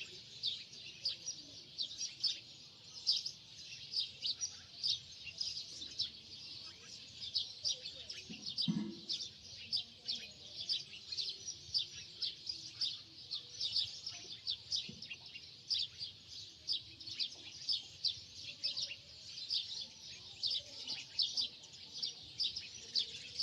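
Small birds chirping continuously, many short high chirps a second.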